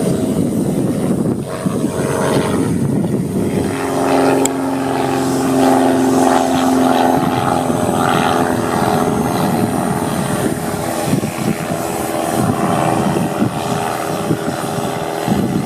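Multirotor quadcopter's electric motors and propellers buzzing as it takes off and flies. The buzz grows clearer about four seconds in and shifts slightly in pitch as the motors speed up and slow down.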